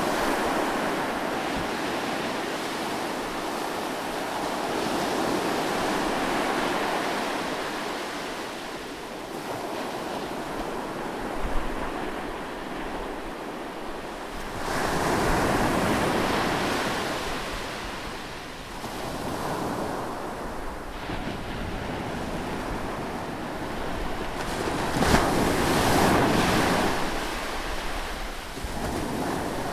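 Seaside waves breaking close by, swelling and ebbing in slow surges several seconds apart, with two brief sharp sounds, one near the middle and one near the end.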